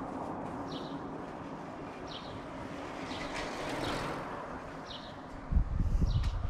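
A bird calling with short, high, falling chirps about once a second over a steady street hum. A swell of broad noise comes midway, and a run of low thumps near the end is the loudest sound.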